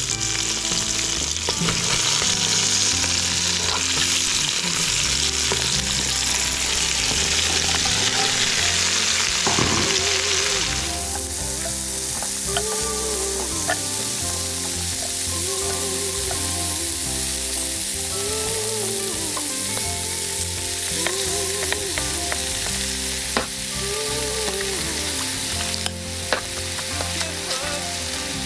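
Food sizzling as it fries in a pan, a steady hiss with stirring, changing character sharply about eleven seconds in.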